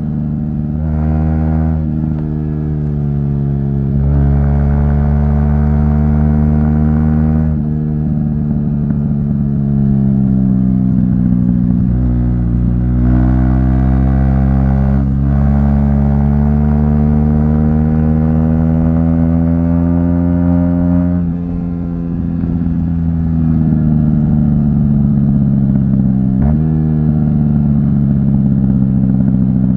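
Aprilia SX 125 single-cylinder four-stroke through an Arrow aftermarket exhaust, under way: the revs climb steadily, then drop suddenly at each gear change, several times over.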